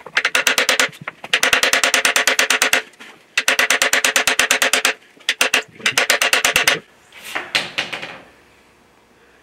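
Bursts of rapid metal-on-metal hammering, about ten ringing blows a second, as a bearing is driven into the CAT D4D's heated engine block. The bursts last one to one and a half seconds with short pauses between them, and a few softer, looser hits come near the end.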